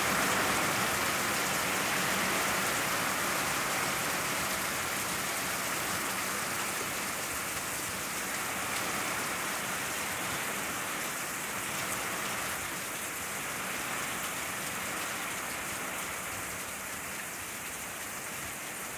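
Heavy rain falling in a steady downpour, slowly growing quieter.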